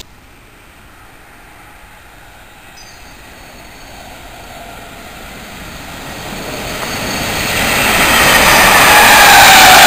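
Electric multiple unit train approaching and passing through the station at speed: a rushing of wheels on rail that builds steadily over several seconds to its loudest near the end, with a whine that falls in pitch as it goes by.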